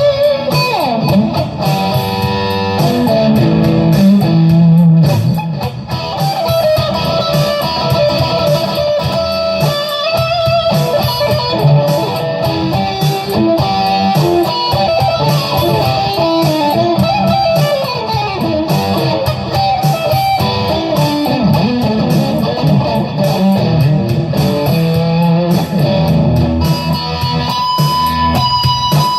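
Electric guitar playing improvised lead lines: a continuous stream of single notes and scale runs, with some notes gliding in pitch.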